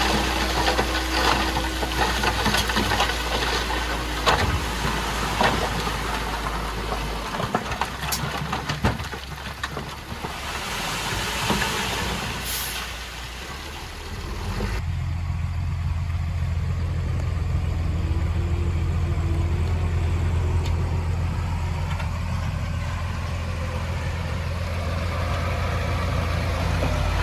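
Bulldozer's diesel engine working, with clanking and rattling from the tracks and blade over the engine drone. About halfway through the sound changes abruptly to a steady engine drone.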